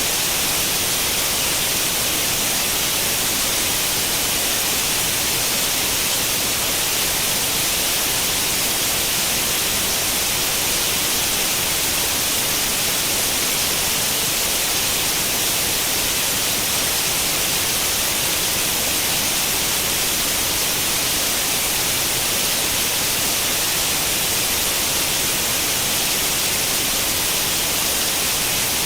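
Steady, unchanging white-noise hiss, strongest in the treble, reproducing the static of an old tube television tuned to no channel.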